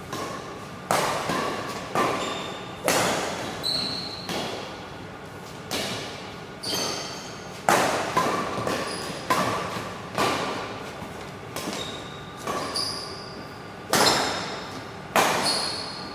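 Badminton rally: rackets striking the shuttlecock again and again, roughly one hit a second, each hit echoing briefly in the hall, with short high squeaks of court shoes between hits.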